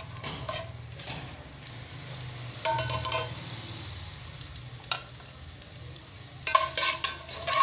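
Edible gum (gond) frying in desi ghee in a metal pot, sizzling steadily as the pieces puff up. A metal spoon stirs and scrapes against the pot in two short bouts, about three seconds in and again near the end.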